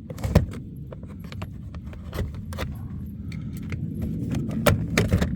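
Scattered sharp clicks and light rattles of a Silverado's plastic door trim being handled and pulled free, over a steady low rumble.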